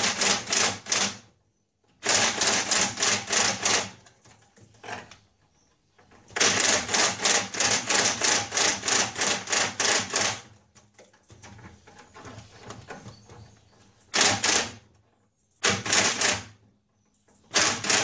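A powered driver tightening the worm screw of a Jubilee hose clip. It runs in several bursts of rapid, even clicking, the longest about four seconds, with short pauses between them.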